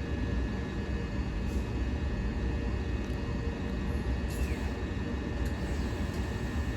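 Pair of Class 376 Electrostar electric multiple units pulling out of the platform: a steady low rumble with steady high electrical tones.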